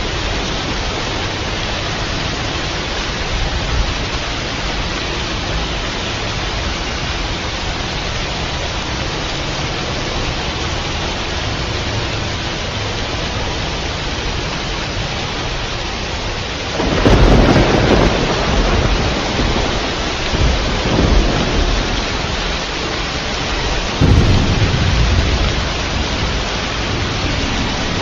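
Steady heavy rain hissing throughout, with thunder breaking in past the middle: a sudden loud crack and rumble that swells again a few seconds later, then a second sharp clap and rumble near the end.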